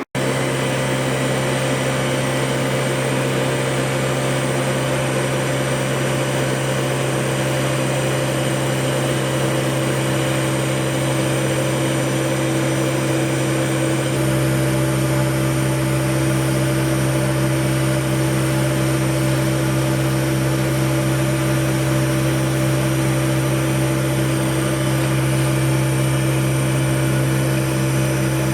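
HAAS TM-2 vertical milling machine running, a steady mechanical hum with several constant tones; a deeper rumble joins about halfway through.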